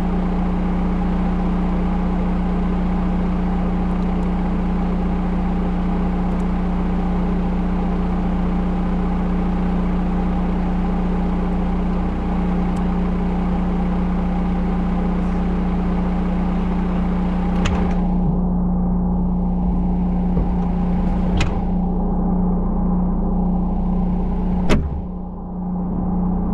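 Diesel engine of a Volvo L110 wheel loader running steadily at a constant pitch while plowing snow. Three sharp knocks come in the last third, the loudest near the end.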